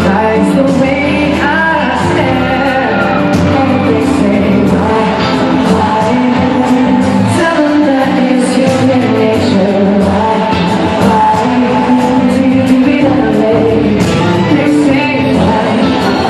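A live pop band and lead singer performing a slow R&B ballad, loud and steady, recorded from the audience in a large concert hall.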